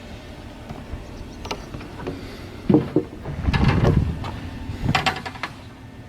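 Shipbuilding work noise: a few knocks and clatters, the loudest a short stretch of clatter about three and a half seconds in, over a steady low hum.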